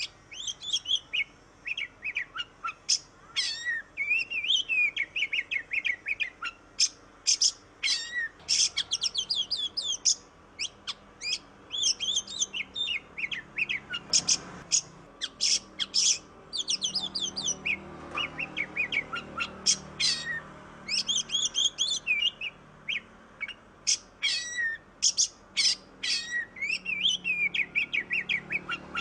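Oriental magpie-robin (kacer) singing continuously: a rapid, dense run of high-pitched chirps, trills and whistled notes with only brief gaps.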